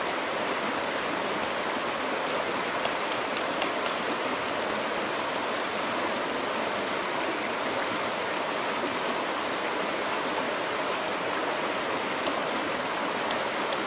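Steady rushing noise with a few faint, light ticks scattered through it.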